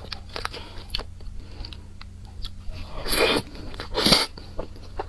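Close-miked eating of chili peppers: wet mouth clicks and chewing throughout, with two loud crunching bites about three and four seconds in.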